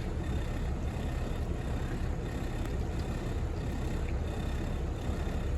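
Twin Caterpillar 3116 inline-six marine diesels running at low speed, a steady low rumble, with the exhaust not very smoky.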